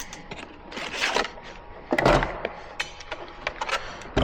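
Handling noises from work on the car: scattered sharp clicks and knocks with rubbing, the loudest a thump and scrape about two seconds in.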